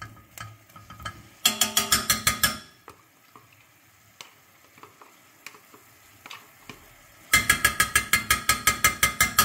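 A utensil stirring quickly in a pot, clinking in an even rhythm of about nine strokes a second. It comes in two spells: a short one about a second and a half in, and a longer one from about seven seconds on. Faint scattered clicks fall between them.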